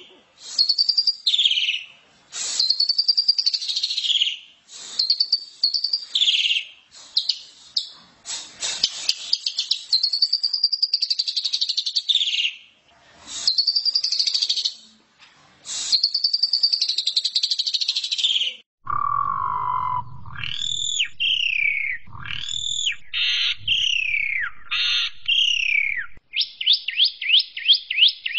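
Asian pied starling singing: loud, slurred whistled phrases repeated every second or two. About two-thirds of the way through the song changes to lower, varied notes, and near the end it breaks into a fast run of repeated chirps.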